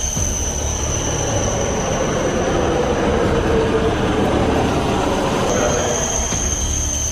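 High-speed train running at speed: a steady rumble and rushing noise with a thin high-pitched whine on top.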